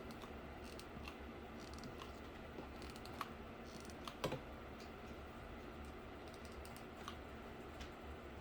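Scattered light clicks and taps from cardboard pieces being handled and worked on, over a faint steady low hum.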